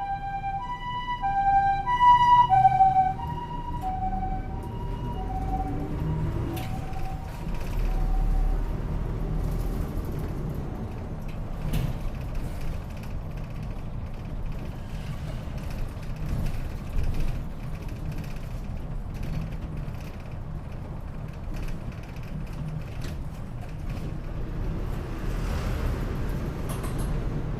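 An ambulance's two-tone hi-lo siren, alternating about twice a second, loudest about two seconds in, then dropping slightly in pitch as it passes and fading away within a few more seconds. After it, the route bus's engine and road noise continue steadily.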